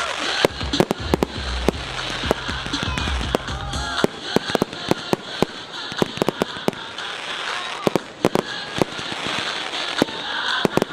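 Fireworks display: a rapid, irregular run of sharp bangs and crackling reports over a hissing background, with bass-heavy pop music under it that stops about four seconds in.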